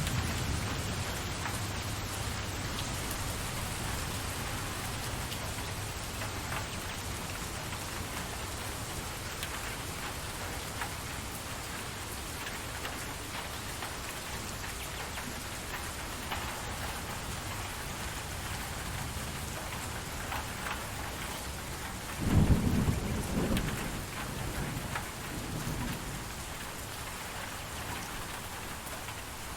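Steady rain falling, with low rolls of thunder: one dying away at the start, and a louder rumble about three quarters of the way through that trails off in smaller rolls.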